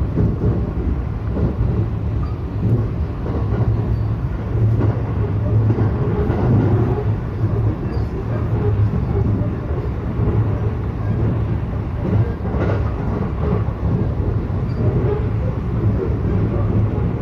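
Local electric train running between stations, heard inside the passenger car: a steady low rumble of wheels and motors with rail noise over it.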